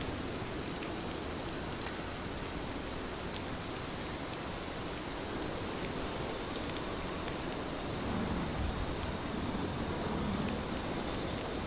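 Heavy rain falling steadily, with individual drops ticking on a surface. There is a slight low swell about eight seconds in.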